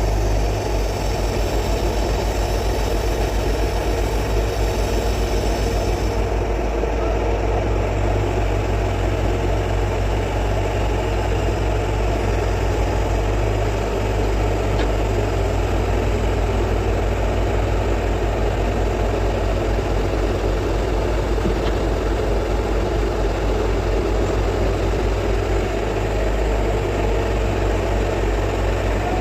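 Heavy excavator's diesel engine running steadily with a deep, even drone. A high hiss over it stops about six seconds in.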